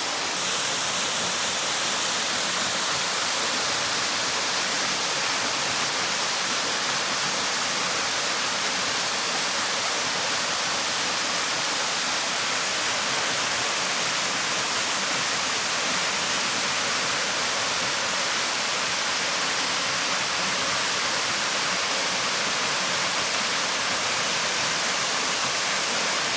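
Waterfall pouring steadily into its pool: a constant, even rush of falling water, strongest in the hiss.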